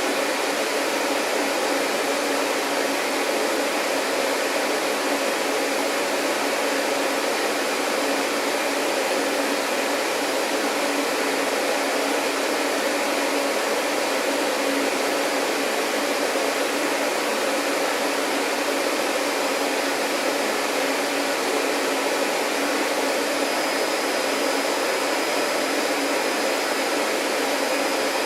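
Vacuum cleaner running steadily: an even whooshing rush of air over a low motor hum, with a faint high whine joining near the end.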